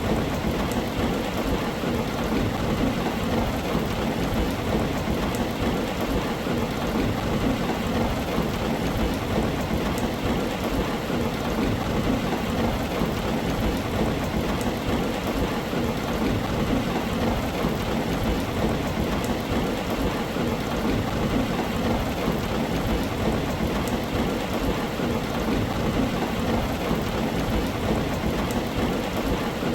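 Steady heavy rain falling on a tin roof: an even wash of noise with no let-up, flecked with faint sharp drop ticks.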